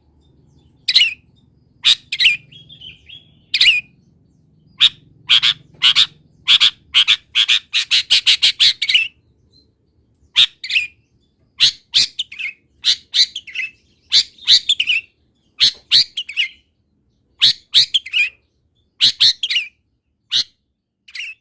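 Long-tailed shrike (cendet) singing a varied song of sharp chirps and mimicked wild-bird calls. A fast run of loud, repeated notes comes near the middle, then separate chirps and short phrases follow.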